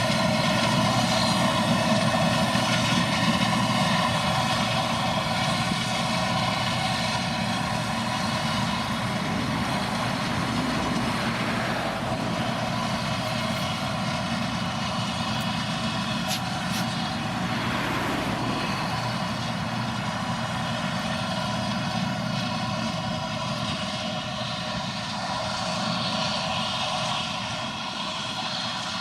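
Heavy farm machinery's diesel engine running steadily at working speed, with an even drone and whine, getting slightly quieter near the end.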